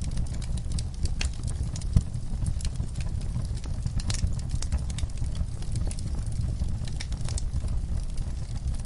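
Wood fire burning in a fireplace: steady low rumble of the flames with irregular crackles and pops, one sharper pop about two seconds in.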